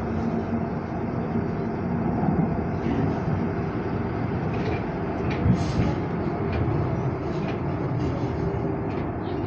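Light-rail train running, heard from inside the passenger car: a steady rumble of wheels on track. A few light clicks and one brief sharp clack about five and a half seconds in.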